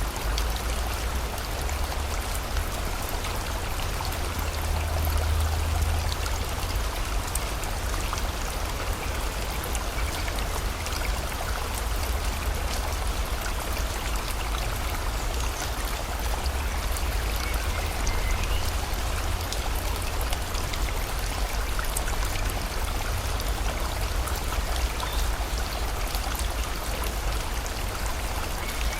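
Steady rushing of a river with rain falling, an even hiss of water over a constant low rumble.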